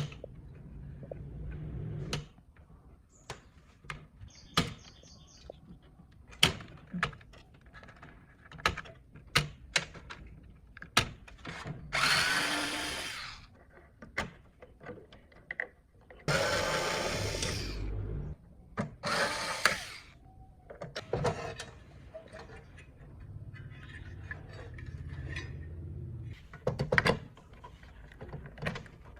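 Handheld power tool running in three short bursts, a second or two each, among scattered clicks and knocks of parts being handled.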